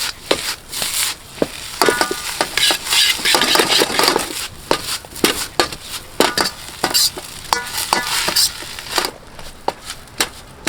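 A ladle clanking and scraping against a wok while fried rice is stir-fried over high heat. The rice sizzles underneath, and a few of the knocks ring briefly like metal. The sizzling eases near the end.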